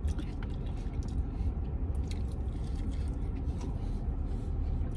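A person chewing a mouthful of breaded vegan buffalo finger, with soft wet mouth sounds and small clicks, over a steady low hum.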